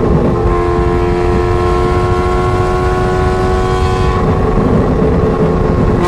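Ferrari 430 Scuderia's 4.3-litre V8 through a straight-pipe exhaust, running hard at high revs with a steady, slowly rising pitch. The note breaks briefly about four seconds in, then carries on.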